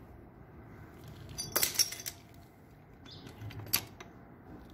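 Light metallic clinks and rattles of nuts and tools being handled during an engine teardown: a short cluster of ringing clinks about one and a half seconds in and a single sharp clink near the end.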